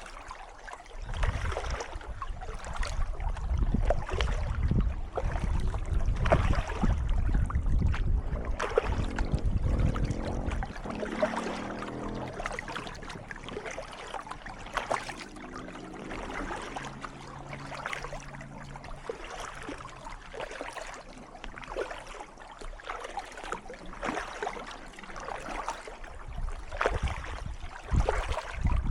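Kayak paddle strokes: repeated splashes and drips as the paddle blades dip into the water and pull, with water trickling along the hull. A low wind rumble on the microphone drops away about a third of the way in and returns near the end.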